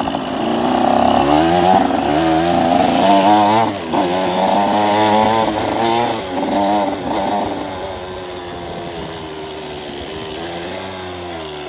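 Motocross dirt bike engine revving up and down over and over, its pitch rising and falling, then holding steadier and a little quieter for the last few seconds.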